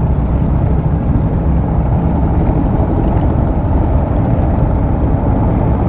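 Motorcycle engine idling steadily while stopped, a continuous low sound with no revving.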